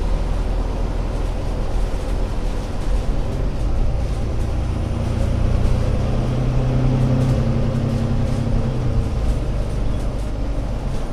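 Engine of an ADL Enviro500 MMC Euro 6 double-decker bus running while the bus is under way, a steady low drone. Its note grows stronger about halfway through and drops back after a few seconds, as the engine pulls and then eases off.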